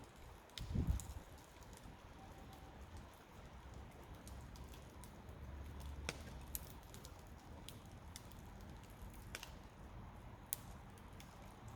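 Wood fire crackling faintly: sparse, irregular sharp pops and snaps over a low rumble, with a short low thud about a second in.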